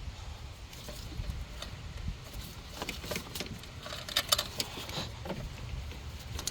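Metal hand tools and loose hardware clinking and rattling against the engine, in an irregular cluster of sharp metallic clicks in the middle, the loudest just after four seconds.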